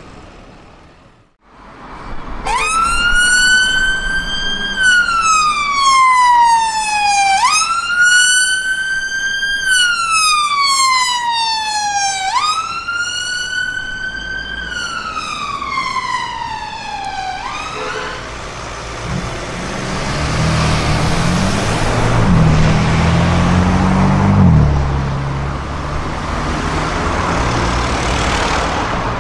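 Emergency vehicle siren on a slow wail, each cycle rising briefly and then sliding down over about five seconds, three times over. It then stops, and loud road and traffic noise follows, with a vehicle engine revving up.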